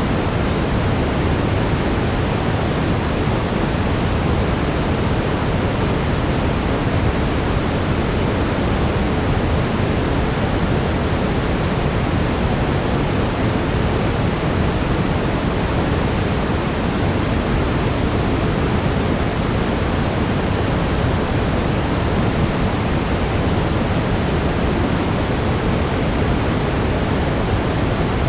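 Steady brown noise: a dense, even rush weighted toward the low end, unchanging throughout with no distinct events.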